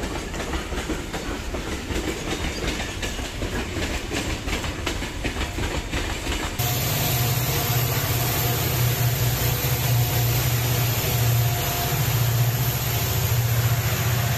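A train running on the railway line, its wheels clicking in a quick, even rhythm. About halfway through the sound changes abruptly to a steady low engine hum.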